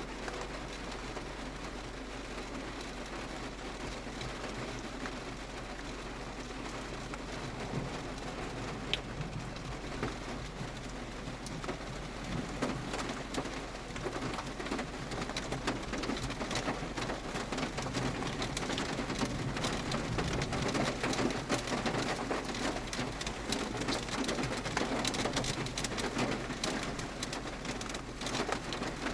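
Very heavy rain drumming on a car's roof and windows, heard from inside the car: a dense patter of drops that grows louder and heavier about halfway through.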